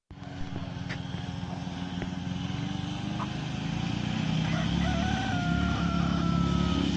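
A rooster crowing, one long call in the second half, over a steady low engine-like rumble.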